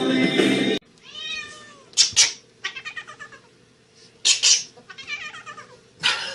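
A cat meowing repeatedly: a run of separate calls that bend in pitch, with a few louder, sharper cries among them.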